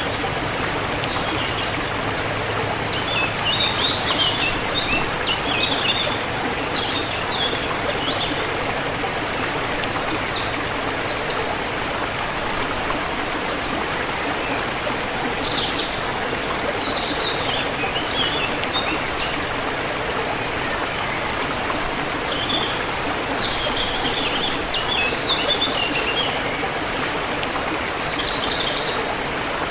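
Forest stream running steadily, with small birds chirping over it in several short bursts of quick high notes.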